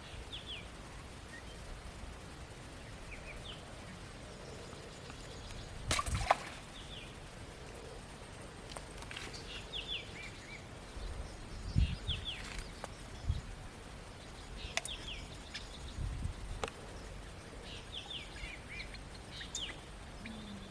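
Small birds calling in short, quick falling chirps at intervals over steady outdoor background noise. A few sudden knocks and low thumps, the loudest about six and twelve seconds in.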